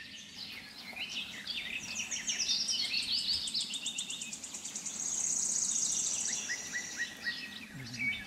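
Songbirds chirping and calling outdoors, several short overlapping calls, with a fast, high trill in the middle.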